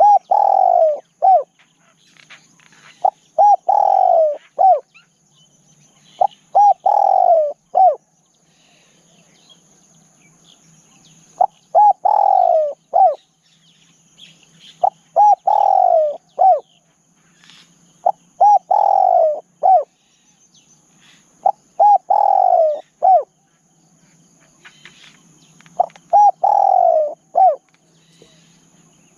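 Spotted dove cooing: a three-note phrase repeated about every three to four seconds, eight times in all.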